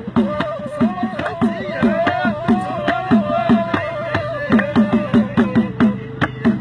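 Gasba reed flute playing a wavering, sliding melody over steady hand-drum strokes, about three a second.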